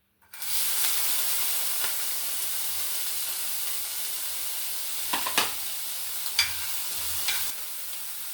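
Chopped onions dropped into hot cooking oil in a pan, sizzling loudly as soon as they go in. A spoon knocks against the pan a few times while they are stirred, and the sizzle eases a little near the end.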